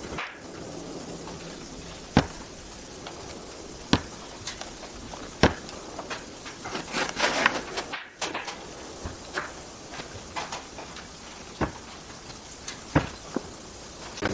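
Woodworking bench handling: scattered sharp knocks and taps of wood and tools a second or two apart, with a busier run of clicks and rustling about halfway through.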